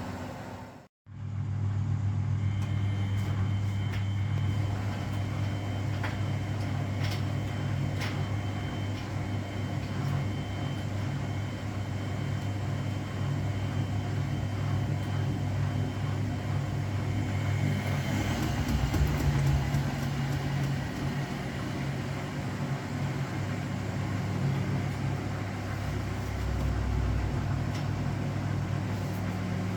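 Front-loading washing machine running with a steady motor hum, with a rougher low rumble about two-thirds of the way through. The sound drops out briefly about a second in.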